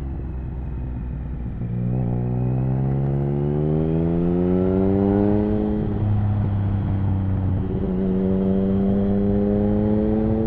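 Triumph Speed Triple 1050's inline three-cylinder engine breathing through an aftermarket HP Corse Hydroform exhaust, pulling under throttle. It rises steadily in pitch from about two seconds in, drops at a gear change around six seconds, then climbs again in the next gear.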